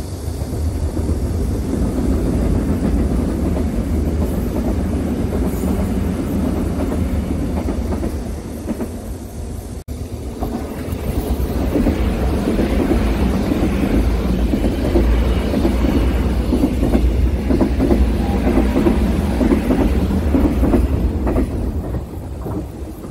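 Electric commuter trains of Seoul Metropolitan Subway Line 4 and the Suin-Bundang Line passing on an elevated track: a steady rumble of wheels on rails. It breaks off briefly about ten seconds in, then a second train passes close by, louder, with a run of rapid wheel clacks.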